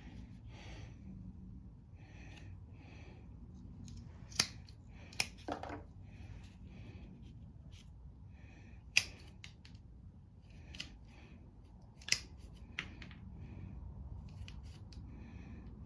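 Sharp snipping clicks while an inline fuel valve is fitted into a mower's fuel line: about six short snips, the loudest a little past 4, 5, 9 and 12 seconds in, with soft handling rustle between.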